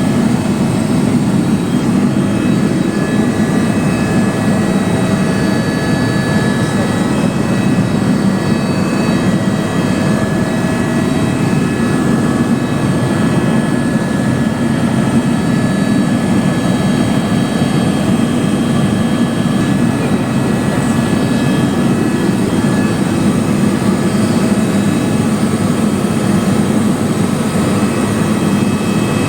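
Helicopter in flight, heard from on board: a steady, loud engine and rotor drone with faint steady high tones over it.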